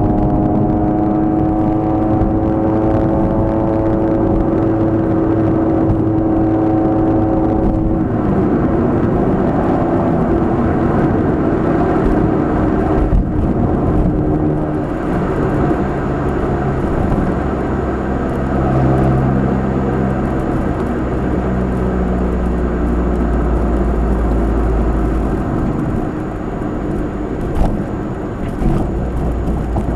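Nissan March 12SR's engine and Kakimoto aftermarket exhaust heard from inside the car while driving: the note rises steadily as the car accelerates, drops at gear changes about eight and thirteen seconds in, then runs at a lower, varying pitch over steady road rumble.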